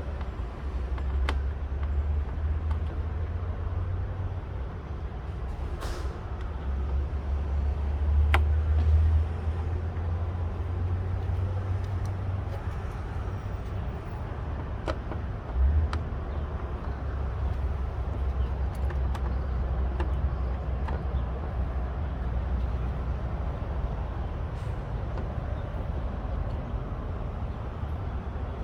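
Scattered sharp clicks and taps of plastic trim clips and small screws being fitted to a minivan's front trim, over a steady low rumble that swells briefly a few times.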